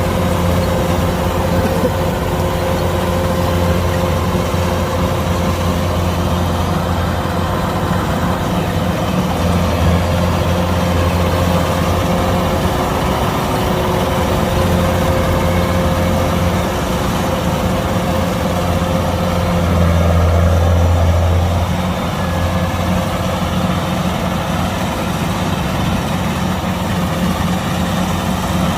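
Kubota DC-105X combine harvester's diesel engine running steadily, with a brief rise in loudness about twenty seconds in.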